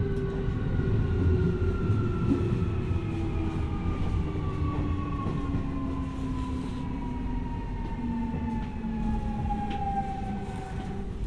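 Keio 1000 series 3rd-batch electric train heard from inside the car as it brakes into a station. The VVVF inverter whines with several tones falling steadily in pitch, its distinctive low asynchronous-mode tone, over the rumble of wheels on rail. The whine cuts off near the end.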